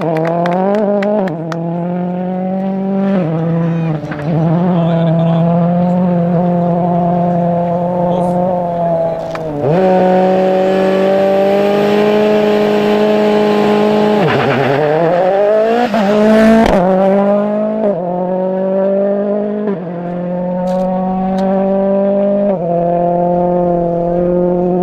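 Ford rally car engine running hard at high revs, its pitch stepping at gear changes, with two deep drops in revs about ten and fifteen seconds in that climb straight back up. A brief burst of noise comes around sixteen seconds in, and the sound cuts off abruptly at the end.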